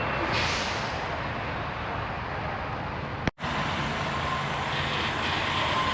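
Steady rumble and noise of a semi truck's diesel engine running. Near silence cuts in briefly about three seconds in.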